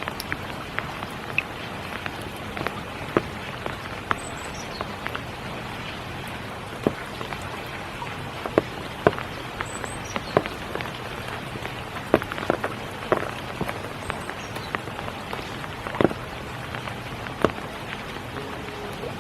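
Steady spring rain hissing, with large drops striking at irregular intervals, some of them loud. A faint high chirp falling in pitch comes three times from a small bird.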